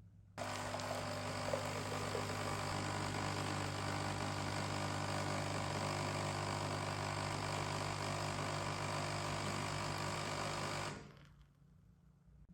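A small electric motor running steadily with a low hum. It switches on abruptly about half a second in and winds down over about half a second near the end.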